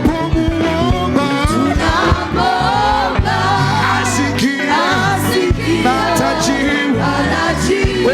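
Live gospel praise music: singers over a band with bass and drums keeping a steady beat.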